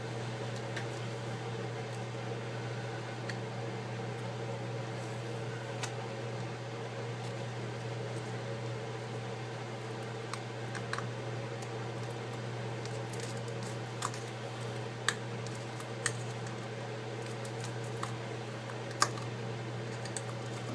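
Small hand tools clicking and tapping against an iPad's frame and screws during a screen repair: a few sharp single clicks several seconds apart, mostly in the second half, over a steady low hum.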